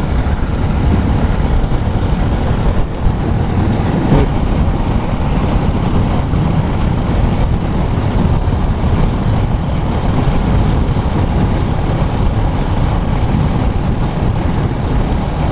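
Motorcycle running at steady road speed, its engine and the rushing wind making one unbroken noise.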